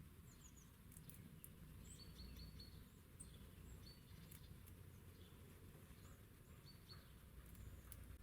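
Faint, quiet outdoor ambience with small birds giving short high chirps in quick series of three or four notes, and a few faint clicks.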